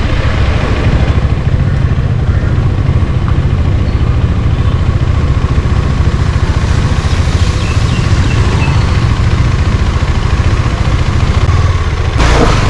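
Motorcycle engine running steadily as it rides along, a loud continuous low rumble.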